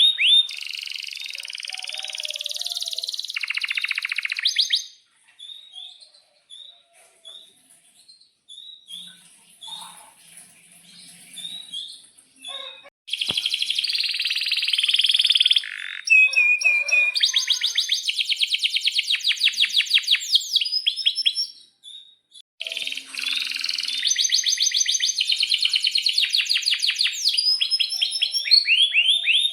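Male domestic canary singing: long phrases of fast rolling trills and sharp chirps, with a quieter stretch of scattered single chirps in the middle and a brief pause later on.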